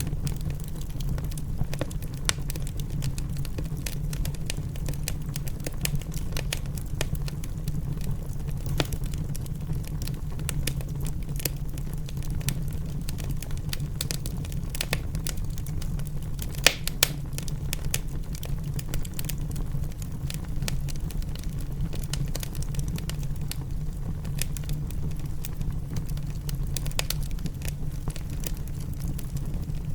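Wood fire crackling in a fireplace: dense, irregular snaps and pops over a steady low rumble, with one louder pop about 17 seconds in.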